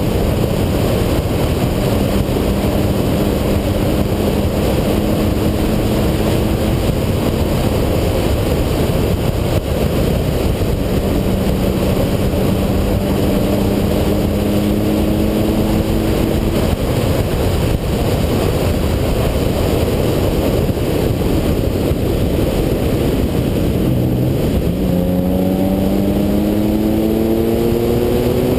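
A Ferrari's engine pulling uphill, its note rising slowly through each gear, under a heavy rumble of wind and road noise. Near the end the revs jump up and climb steeply as the car accelerates again.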